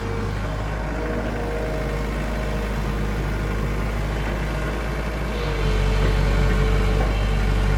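Excavator's diesel engine running steadily. About five and a half seconds in it grows louder as the engine takes on load.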